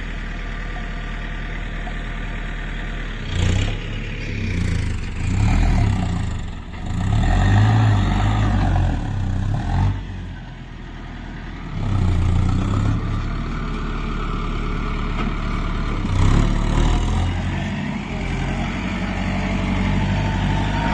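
Diesel tractor engine running steadily, revving up in several louder surges during the first half and again twice later.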